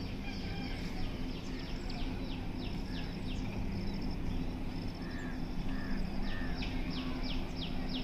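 Birds chirping outdoors: runs of short, quick, falling chirps, one near the start and another near the end, over a steady low hum and outdoor background noise.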